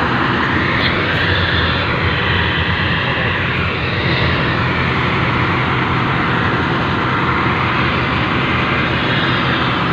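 Locomotive of an industrial nickel-smelter railway running steadily, heard from on board: a continuous engine drone under a loud rushing running noise.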